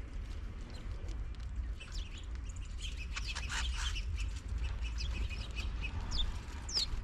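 House finches chirping in short, scattered calls, busiest about halfway through, with a quick sliding note near the end, over a steady low rumble.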